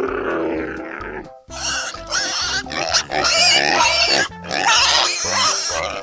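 An animal grunting for about a second, then squealing loudly and shrilly with a wavering pitch over the rest, over steady background music.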